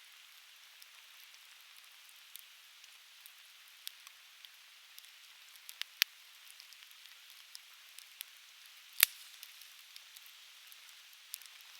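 Conifer firewood crackling in an open fire pit: scattered sharp pops and snaps over a faint steady hiss, with one loud pop about nine seconds in.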